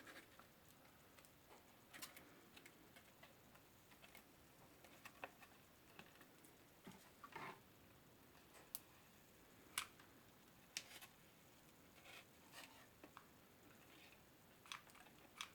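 Faint, scattered light clicks and taps of hands working on a styrofoam model plane as wooden skewer sticks are fitted along its fuselage, with near silence between them.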